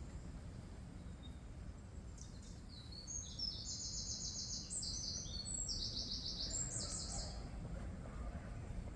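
Small songbird singing a series of rapid high trills for a few seconds, over a faint steady low rumble of background noise.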